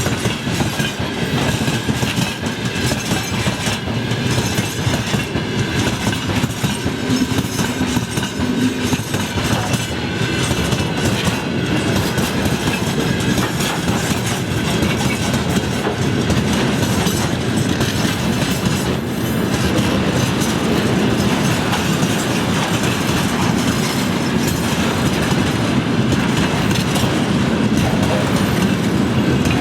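A long freight train rolling past, its wagon wheels clattering over rail joints in a steady clickety-clack, getting a little louder about two-thirds of the way through.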